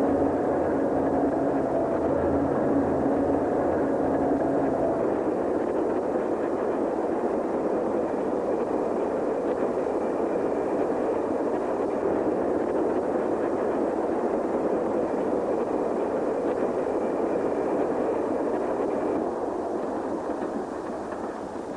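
A train rolling past: a steady rumble of wheels on the rails, with a hum in the first few seconds, dying away near the end.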